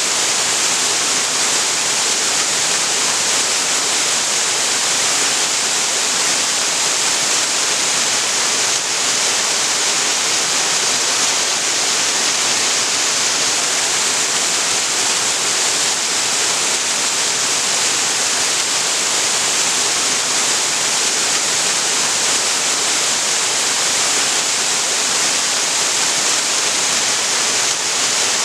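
Waterfall rushing in a steady, loud hiss of falling water, unchanging throughout.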